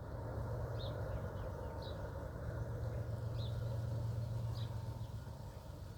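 Low, steady rumble of distant diesel locomotives that swells slightly midway, with a small bird chirping about once a second.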